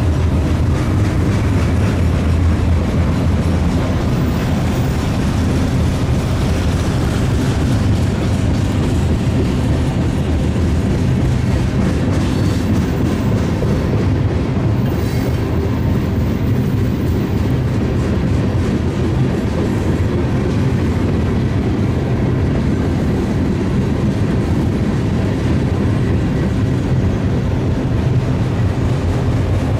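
Union Pacific freight train rolling past, its cars making a steady, loud rumble of wheels clicking over the rails.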